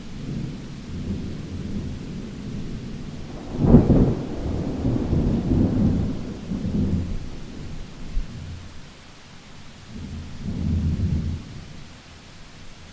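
Thunder rolling over steady rain: a sharp crack about four seconds in, rumbling on for a few seconds, then a second, softer roll of thunder near the end.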